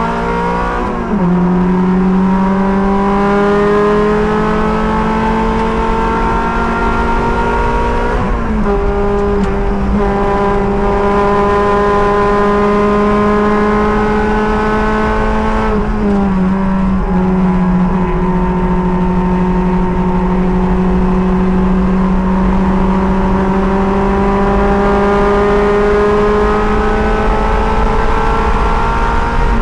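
Race car engine running hard at high, steady revs, heard from the driver's seat. Its pitch drops abruptly and climbs back about a second in, twice more in the middle, and at the end.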